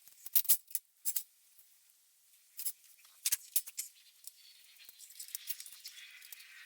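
Scattered light clicks and taps, as of hand tools and steel parts being picked up and set down during work prep, with a few sharper strikes in the first second and again around the middle.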